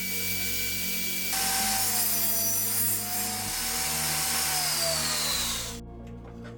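An electric power tool working wood: a loud hiss with a steady whine that grows louder about a second and a half in, its pitch dipping slightly, then cuts off abruptly near the end, followed by a few light clicks.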